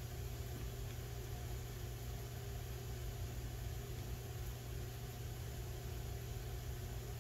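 A steady low mechanical hum that holds the same level throughout, like an engine or motor running at idle.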